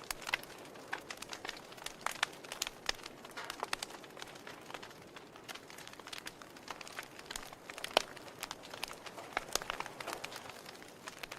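Wood fire burning in a fireplace: logs crackling with irregular sharp pops and snaps over a soft steady hiss, one louder pop about eight seconds in.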